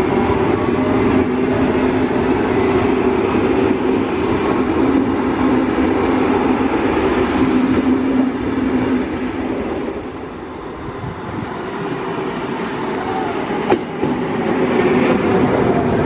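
A train running past on the track, a loud steady noise with a low hum that eases briefly about ten seconds in, then builds again. A single sharp click comes near the end.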